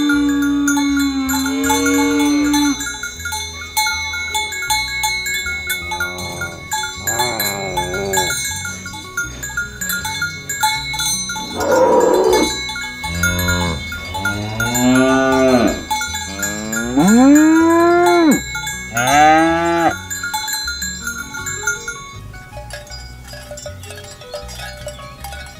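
Cattle mooing repeatedly: about half a dozen long calls, several in quick succession in the middle, then dying away near the end.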